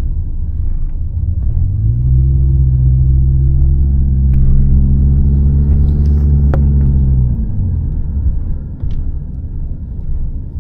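Car travelling on the road, heard from inside the cabin: a steady low rumble of road noise, with the engine's drone rising in pitch as it pulls for several seconds, then dropping away about three quarters of the way through.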